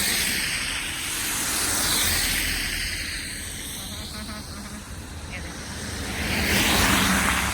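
Cars passing on a slushy, salted road after a snowstorm: tyre hiss swelling and fading three times, near the start, about two seconds in, and near the end, over a low engine rumble.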